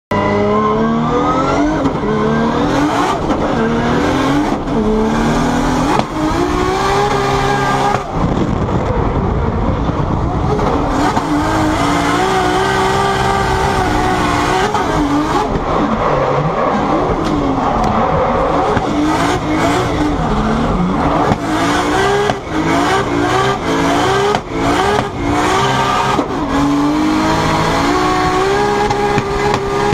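Turbocharged Toyota 1JZ VVT-i straight-six in a Nissan 180SX drift car, heard from inside the cabin. It revs hard up through several quick gear changes in the first few seconds. Then the revs climb and drop over and over as the car drifts.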